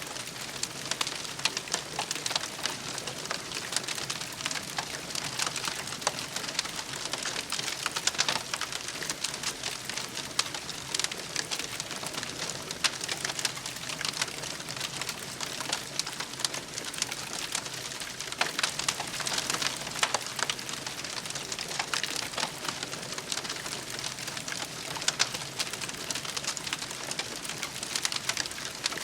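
Wood campfire crackling and popping, with many small sharp snaps over a steady hiss.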